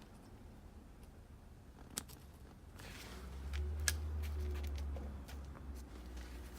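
Light clicks and taps from handling multimeter probes and leads against a fuel injector. There are two sharper clicks, about two seconds in and about four seconds in, and a low handling rumble in the middle.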